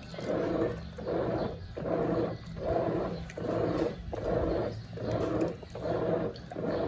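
Brastemp Eggo 1 kg mini washing machine in its wash cycle, its motor churning the load and water back and forth in an even rhythm of about one and a half strokes a second.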